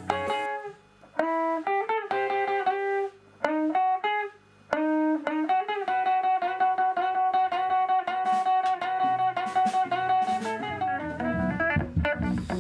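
Guitar playing a melody: a few held notes with short pauses between them, then fast repeated notes over a sustained note. Lower notes join in underneath near the end.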